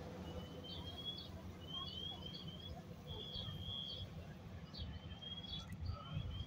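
Small birds chirping faintly, short high chirps at irregular intervals, over a low outdoor rumble.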